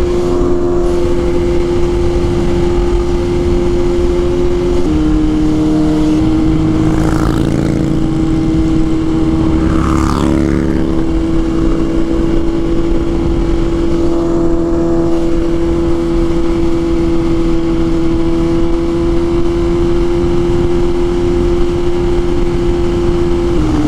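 BMW S1000RR inline-four engine running at a steady high pitch under way, with a small step down in pitch about five seconds in, like an upshift, and wind rush underneath.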